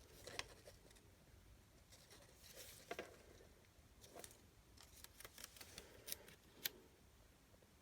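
Faint handling sounds of paper and a masking strip being adjusted on card: scattered light clicks and taps, with a brief rustle a little before three seconds in.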